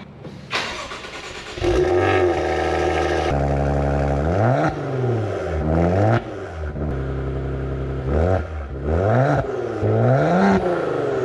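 Maserati car engine started, then revved in about five blips that rise and fall in pitch.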